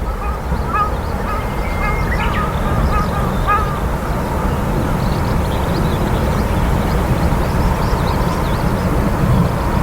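Japanese tit calling from a branch, a series of short chirps, strongest in the first few seconds and fainter later, over a steady low rumble.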